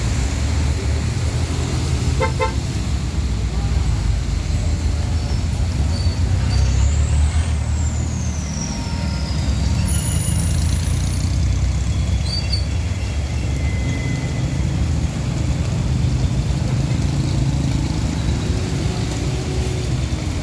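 Road traffic: a steady low vehicle rumble with a short car horn toot about two seconds in.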